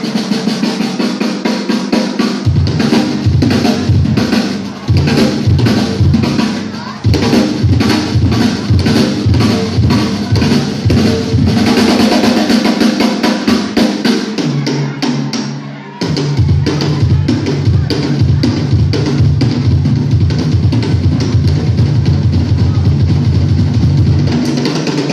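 Live rock band playing an instrumental passage, driven by a drum kit with a steady kick and snare beat under bass and guitar. The music dips briefly about two-thirds of the way through, then the full band comes back in.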